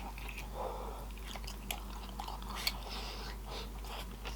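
Close-miked chewing with scattered sharp, wet mouth clicks and smacks, plus a few soft puffs of breath or food noise.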